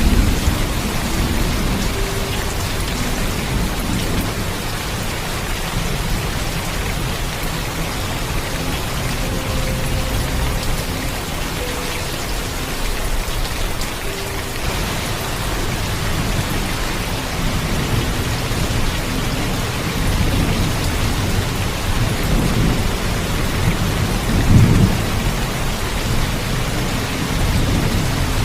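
Heavy rain falling steadily with low thunder rumbling under it, swelling in a louder roll of thunder about twenty-five seconds in.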